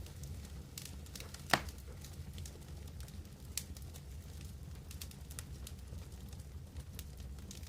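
Wood campfire crackling steadily over a low rumble of flame, with one loud sharp pop about a second and a half in and a smaller one later.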